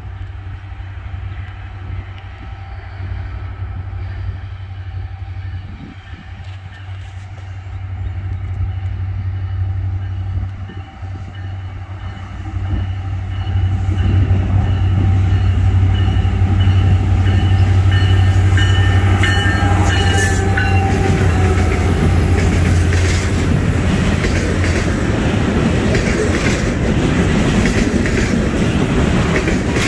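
Norfolk Southern diesel freight locomotives approaching with a steady low engine drone; the horn sounds for several seconds around the middle as the train gets loud and close, then the freight cars roll past with a steady rumble and clack of wheels on the rails.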